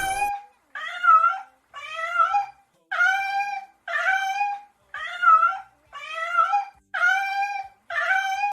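An animal call repeated about ten times at an even pace, each a short pitched cry that bends up and down, with brief gaps between.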